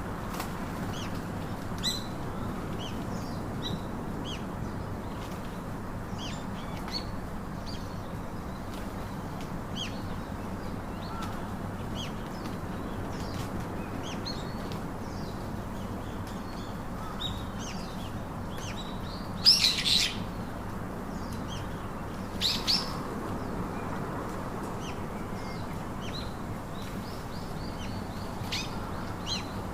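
Birds calling: many short high chirps and tweets throughout, with two much louder harsh squawks close together about two-thirds of the way through. A steady low hum runs underneath.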